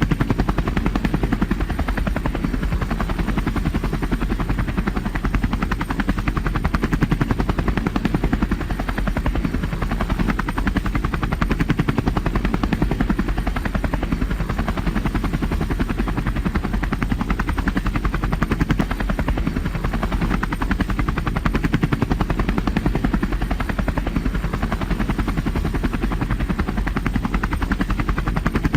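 Tour helicopter in flight: steady rotor and engine noise with a fast, even chop from the blades.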